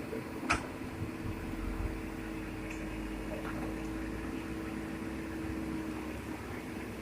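Heavy diesel engine of quarry earthmoving machinery running at a steady speed, with one sharp knock about half a second in.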